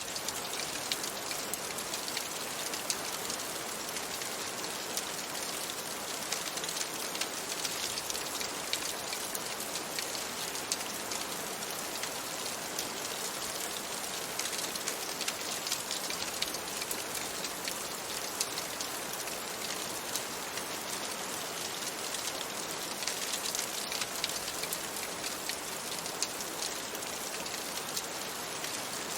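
Steady rain pattering on a window, a dense even hiss of drops, mixed with the scattered small pops of a crackling wood fire.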